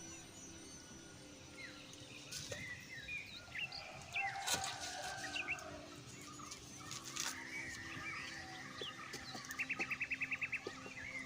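Forest birds chirping and calling, with one bird giving a fast run of about a dozen repeated notes near the end. A few short clicks or knocks come in between.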